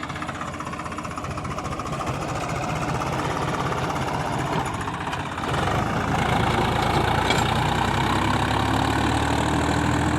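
Swaraj 744 XT tractor's diesel engine running with a knocking beat. About five and a half seconds in it gets louder and deeper, and a faint tone climbs slowly near the end.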